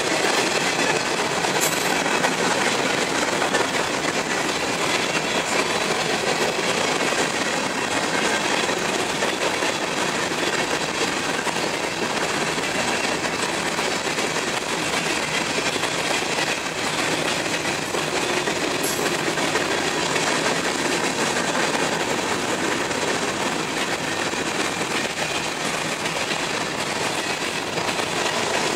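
Empty covered hopper cars of a grain train rolling past at speed, their wheels running on the rails in a steady, continuous noise.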